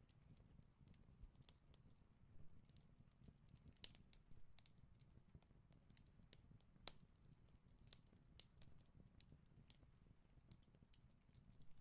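Faint, irregular snips and clicks of scissors cutting through pattern-drafting paper, with light handling of the paper.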